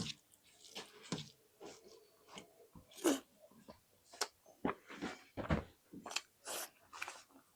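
Close-miked mouth sounds of a person eating egg with rice: irregular wet chewing smacks and bites, the loudest about three seconds in.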